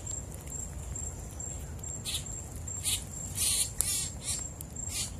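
A high, evenly pulsing insect trill runs throughout. Over it come several short, harsh bird calls between about two and five seconds in.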